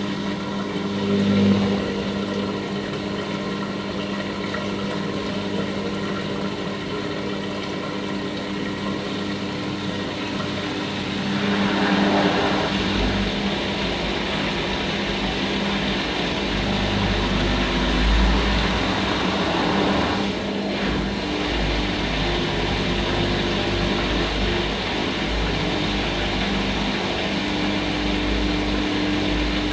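Hoover Nextra HNL662 washing machine running a cycle: a steady motor hum, joined about twelve seconds in by a deeper drum rumble.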